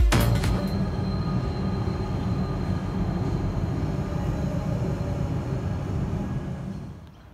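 Electric suburban train (an X'Trapolis multiple unit) running: a steady low rumble with a faint, steady high whine above it, dropping away near the end.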